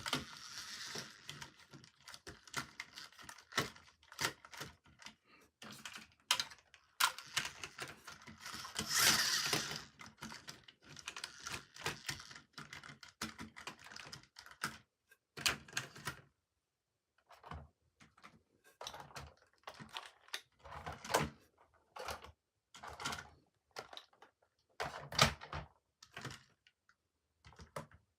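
Plastic toy trains and their packaging being handled: irregular light clicks and knocks, with a couple of longer rustling stretches near the start and about a third of the way in.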